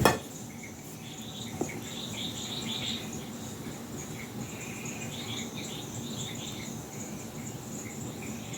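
Night insects, crickets among them, trilling and chirping steadily, with a sharp knock right at the start and a faint click a second and a half later.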